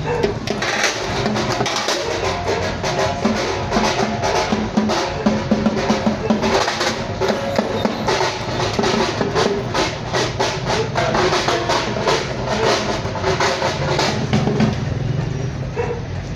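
Indian temple drums played in fast, dense strokes as the drummers warm up.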